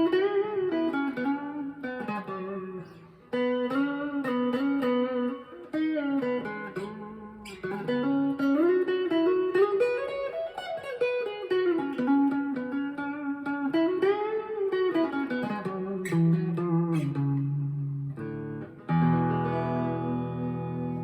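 Clean electric guitar, a Harley Benton SC-DLX humbucker guitar in coil-split mode through a Boss Katana MKII amp with a little reverb, dialled toward a Stratocaster-like single-coil tone. It plays single-note melodic lines with string bends, then a chord strummed near the end that rings on.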